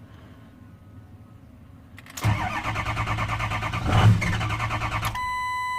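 Ford 6.0 Power Stroke V8 turbodiesel cranking on the starter for about three seconds, with a louder pop about four seconds in as it tries to catch, then stopping dead without starting. This is the no-start fault of an engine that pops a little and shuts right off. A steady electronic beep follows near the end.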